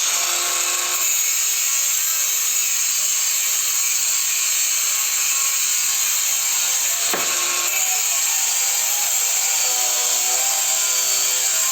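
Parkside 20 V cordless angle grinder cutting through 8 mm smooth steel rebar with an abrasive cut-off disc: a loud, steady, hissing grind. About seven seconds in the sound dips briefly, then the grinding carries on into the second cut.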